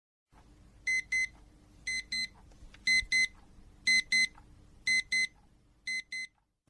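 Electronic alarm beeping in quick pairs, beep-beep about once a second, six pairs in a row.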